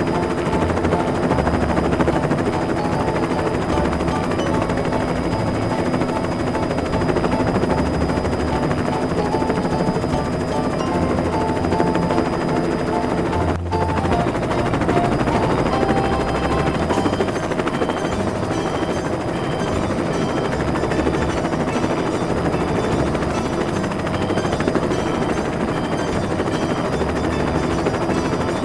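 Helicopter rotor sound chopping steadily, with a brief break about halfway through.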